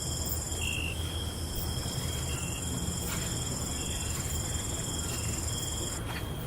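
Crickets trilling at night: several steady high-pitched trills at different pitches, with short chirps repeating every second or so, over a low steady rumble. The highest trills drop out about six seconds in.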